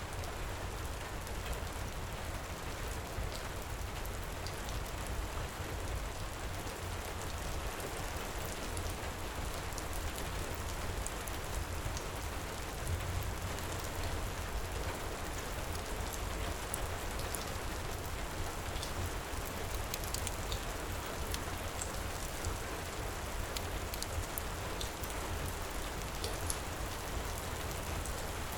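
Steady heavy rain pouring, with a low rumble underneath and scattered small sharp crackles throughout.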